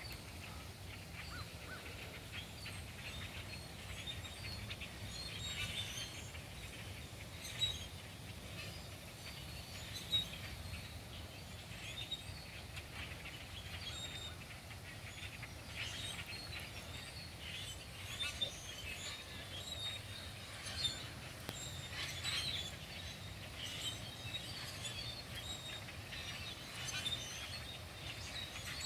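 A large flock of birds calling at once: many short chirps overlapping in a continuous chatter, over a steady low hum.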